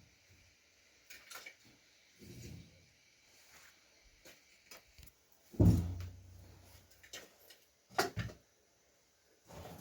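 Scattered knocks and clatters, with a heavy thump a little past halfway and a sharp knock about two seconds later.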